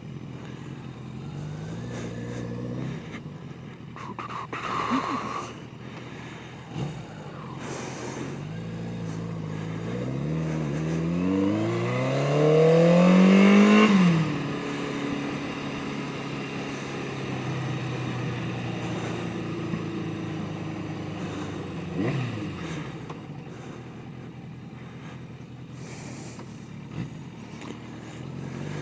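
Yamaha 750 Seca motorcycle's air-cooled inline-four engine under way. It runs steadily, then revs up through a gear in one long rising pitch that is loudest just before the middle, drops off sharply, and settles back to steady cruising.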